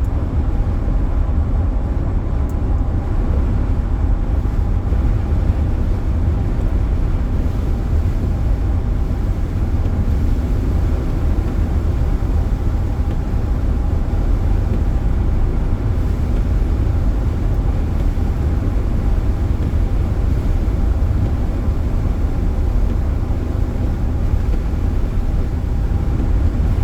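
Steady road and wind noise inside a moving car: a constant low rumble with a faint steady hum over it.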